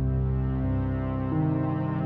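Background music: slow, sustained synthesizer or keyboard chords, changing about every second.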